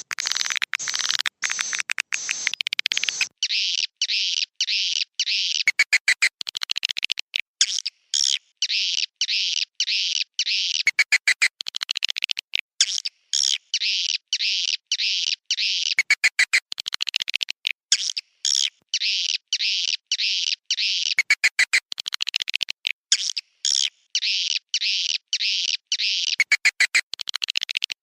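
Swiftlet roosting calls played as a lure sound: dense, high twittering chirps, broken about every five seconds by a burst of rapid clicks, in an evenly repeating pattern.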